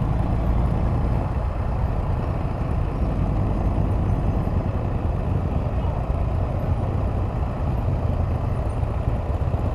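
Can-Am Spyder RT three-wheeled motorcycle riding along: its engine running steadily under a constant rush of wind and road noise.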